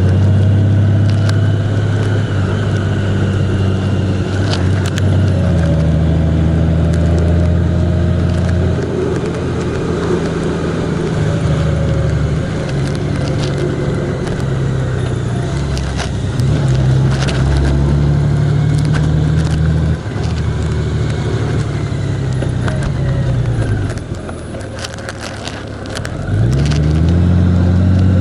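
Vehicle engine running under way, its low note stepping up and down with changes of speed. It eases off and goes quieter for a couple of seconds late on, then revs back up near the end.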